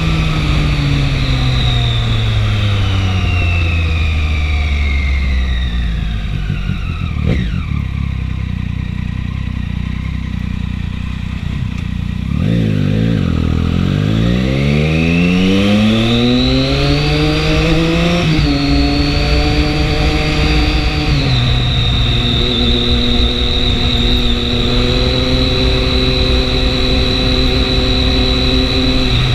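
Triumph 675 inline-three motorcycle engine under way. The revs fall over the first several seconds as it slows. Then they climb as it accelerates, drop sharply twice at upshifts, and hold steady at a cruise, with a high whine rising and falling along with it.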